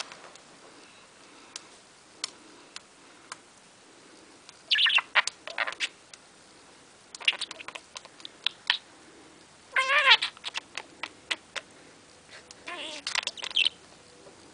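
Young budgerigar chirping and chattering in four short bouts, with sharp clicks scattered between them.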